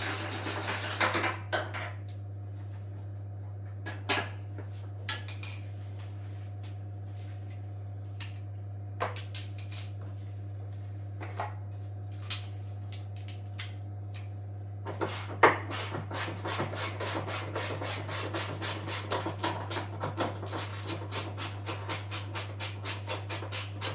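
Hand-tool work on a washing machine while its parts are being taken apart: scattered knocks and clicks, then about fifteen seconds in a fast, even run of sharp clicks, about four a second, over a steady low hum.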